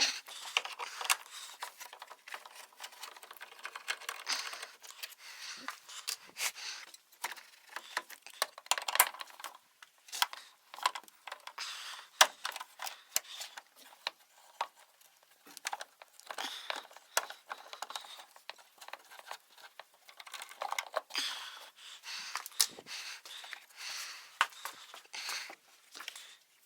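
Ratchet wrench and other metal hand tools clicking and clinking in irregular bursts.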